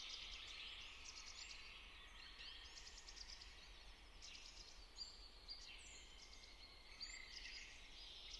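Near silence: faint outdoor ambience with small birds chirping and trilling in the distance, over a low hum.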